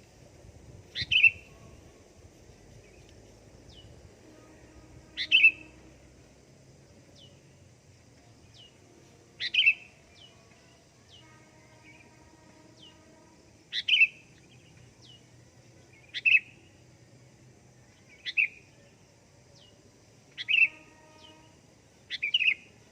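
Sooty-headed bulbul (kutilang) calling: a short, bright call repeated eight times, every two to four seconds, with faint thin falling notes between the calls.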